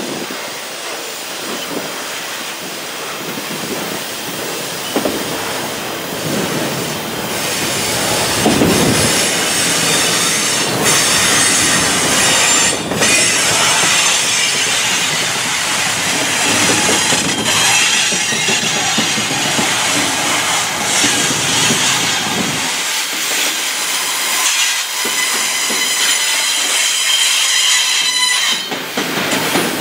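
Double-stack intermodal well cars loaded with containers rolling slowly past on steel wheels. The wheels squeal against the rail with a steady high whine, and occasional clunks and clacks come from the wheels and couplers.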